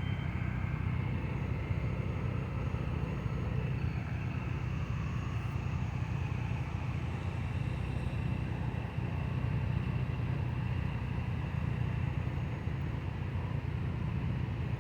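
Steady low rumble of car traffic passing slowly, with no single vehicle standing out.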